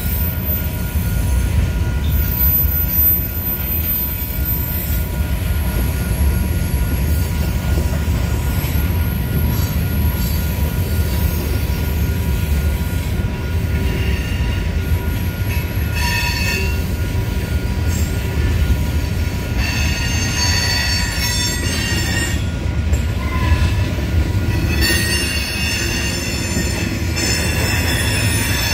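Covered hopper cars of a freight train rolling past with a steady rumble of wheels on rail. High wheel squeal comes and goes, loudest in the second half.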